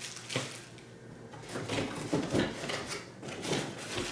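Plastic vacuum parts and cardboard packaging being handled as they come out of the box: a sharp knock about a third of a second in, then scattered softer bumps and rustles.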